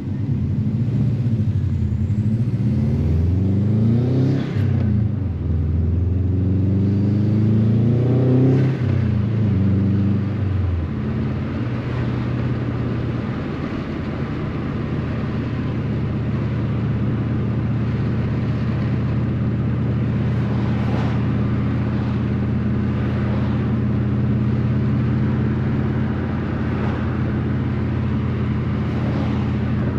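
Subaru WRX (GC8) turbocharged flat-four pulling up through the gears. Its note rises, drops at an upshift about four seconds in, rises again and drops about nine seconds in. From about eleven seconds it settles into a steady cruising drone.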